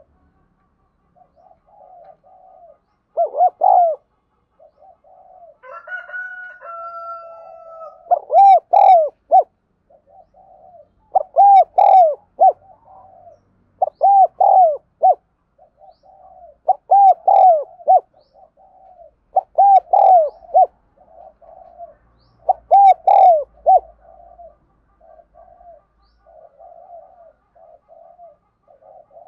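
Spotted dove cooing: loud, repeated coo phrases about every three seconds, with softer coos in between.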